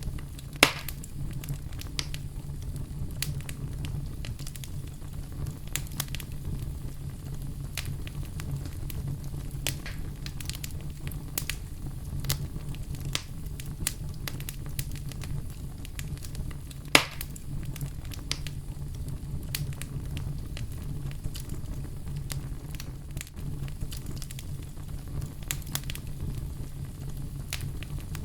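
Burning firewood crackling steadily over a low rumble, with scattered sharp snaps and two loud pops, one about a second in and one past the middle.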